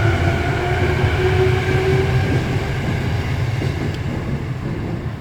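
Limited express electric train pulling out of a station and moving away: a low rumble of wheels and running gear with a motor whine that fades out about halfway through, the whole sound slowly dying away.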